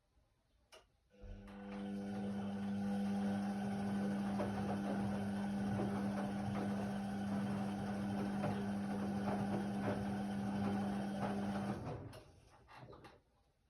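Indesit WIDL 106 washer-dryer with a motor or pump inside it humming steadily for about ten seconds, one low tone over a rushing noise. It starts just after a click and cuts off suddenly, followed by a few faint clicks.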